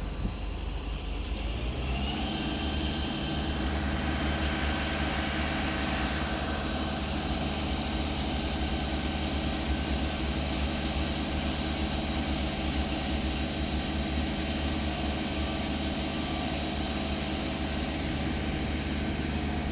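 Diesel locomotive engine running steadily, its engine note settling into an even drone about two seconds in.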